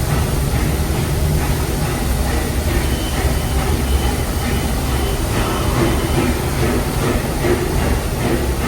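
Narrow-gauge steam train heard from aboard a passenger car while rolling: a steady low rumble with faint repeated clatter from the wheels on the track.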